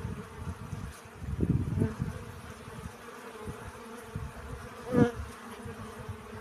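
Bees buzzing while foraging for pollen, the hum swelling as bees pass close, loudest about five seconds in.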